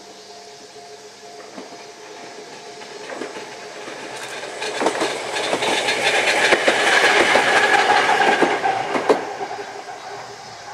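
Jōmō Electric Railway electric train approaching and passing close by, its wheels clicking over the rail joints. It grows louder to a peak about seven to eight seconds in, then fades as it goes away.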